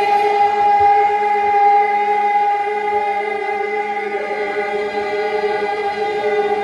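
Voices singing, holding one long unchanging note for about six and a half seconds.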